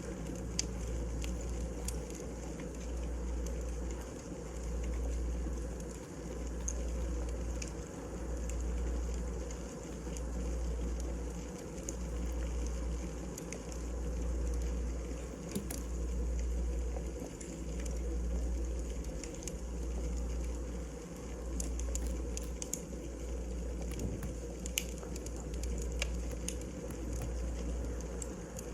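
Wood fire in a fireplace, crackling, with scattered sharp pops from the burning logs over a low rumble that swells and dips about every two seconds.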